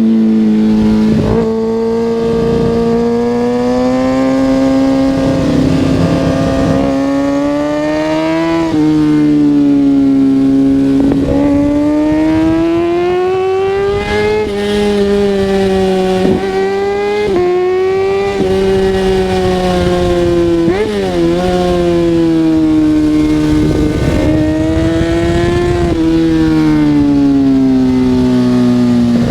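Kawasaki ZX-6R 636's inline-four engine pulling hard on the road. Its pitch climbs and falls again and again, with several quick gear shifts, and patches of rushing noise come and go.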